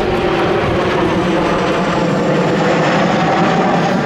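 Aircraft engine noise from a display aircraft flying past, a loud steady drone with several held tones.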